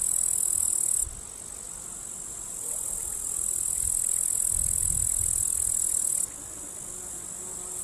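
A steady, high-pitched insect buzz that cuts off about a second in, resumes near three seconds and stops again around six seconds, with a low rumble underneath.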